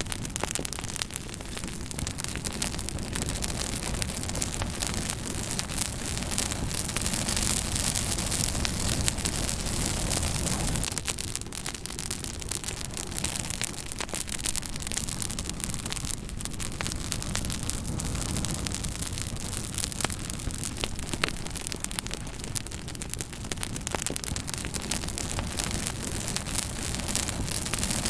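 Wood fire burning with a steady hiss and low rumble, dotted with many small sharp crackles and pops.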